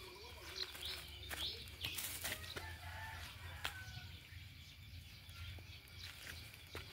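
Birds calling in short chirps, with a few sharp clicks and rustles close by.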